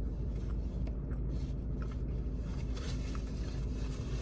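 Steady low hum with a few faint small clicks and rustles.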